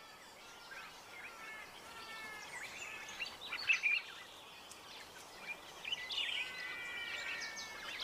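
Birds calling: a run of short chirping calls over a faint background hiss, thickest in the first half and again near the end.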